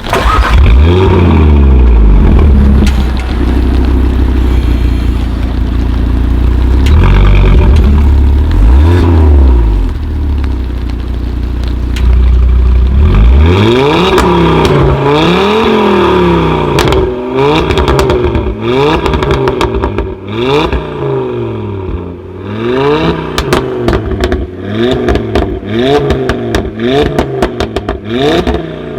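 Tuned car engine revving loud through a performance exhaust. A deep steady rumble with a few revs gives way, about halfway in, to quick repeated rev blips roughly once a second, with exhaust pops and crackles between them.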